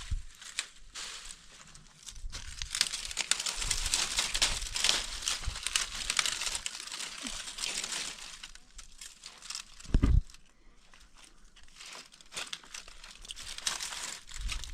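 Close crinkling and rustling of some material being handled, dense from about two seconds in until past eight seconds. There is a single low thump about ten seconds in, the loudest moment.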